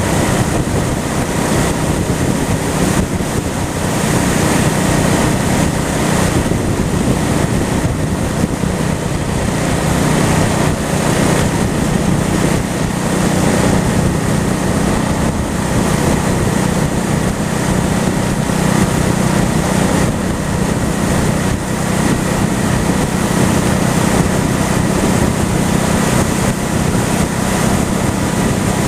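Honda Shadow's V-twin engine running at a steady cruising speed, with wind rushing over the microphone.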